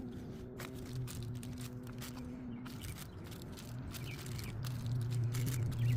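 Scattered rustling and clicking of screen repair tape, coated in JB Weld, being handled, over a steady low hum that grows louder about halfway through.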